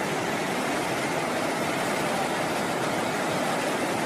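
Steady rushing of a river in high flow, an even, unbroken noise.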